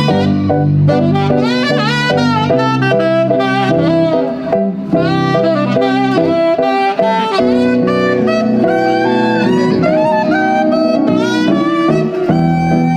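Saxophone playing a solo melody line with sliding, bending notes over a sustained chord and bass accompaniment.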